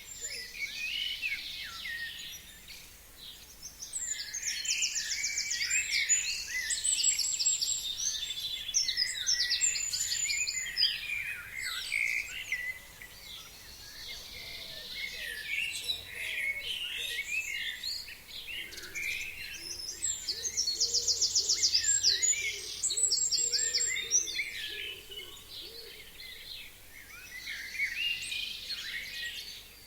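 Several forest songbirds singing together in a busy chorus of overlapping chirps and phrases. Twice, for a few seconds each, a high, rapid trill stands out.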